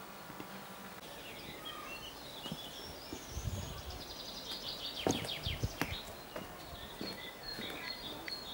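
Small birds chirping and trilling over a low outdoor background hiss, with a few dull low thuds near the middle.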